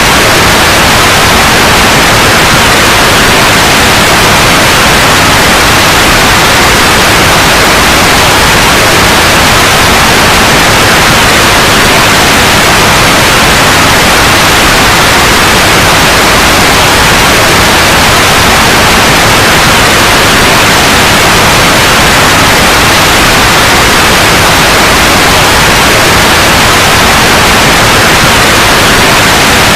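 Steady, loud white noise: an even, unbroken hiss across the whole range, with no change.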